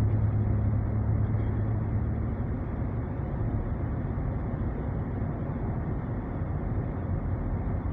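Steady road and engine noise inside an SUV's cabin, with a low hum that fades out about two and a half seconds in.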